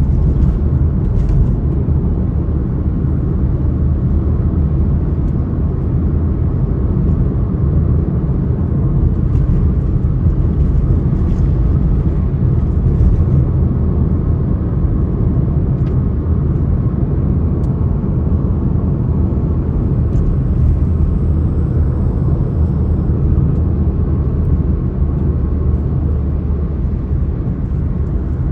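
Steady low rumble of a moving vehicle, even throughout, with a few faint ticks above it.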